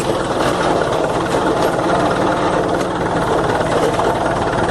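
Old tractor's engine running steadily at high speed as the tractor drives along, with the lowered rear scrape blade dragging along the driveway.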